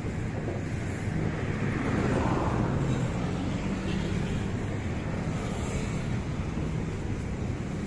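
Passenger train coaches rolling along the track as the train pulls out of the station: a steady rumble of wheels on rails with a low hum, a little louder about two seconds in.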